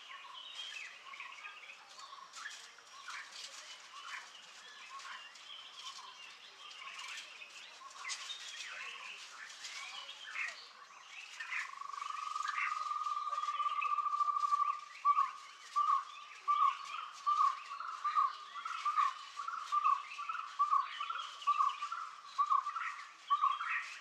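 Forest birds chirping and calling. About halfway through, a steady trill begins, then gives way to a long run of evenly repeated call notes, nearly two a second, which are the loudest sound.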